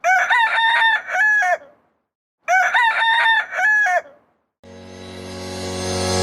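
A rooster crowing twice, each crow about a second and a half long. Then a steady drone swells louder toward the end.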